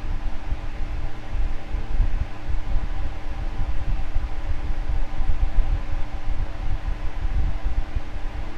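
Electric fan running steadily: a low rumble with a steady motor hum and an even airy hiss.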